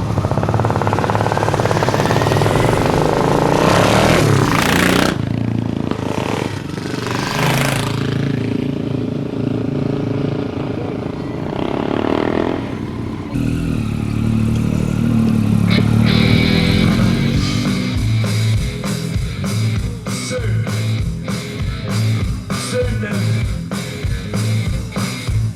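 Motorcycle engines revving and sweeping past, rising and falling in pitch. About thirteen seconds in the sound cuts, and rock music with a steady drum beat takes over.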